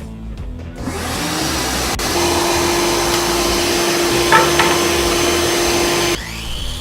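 An electric power tool's motor spins up with a rising whine, runs at a steady even pitch with a loud hiss for about four seconds, then stops abruptly.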